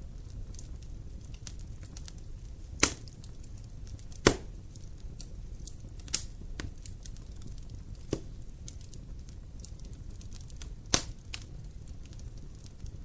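Wood fire burning in a fireplace: a steady low rumble under a constant light crackle, with several sharp pops of burning wood, the loudest about four seconds in.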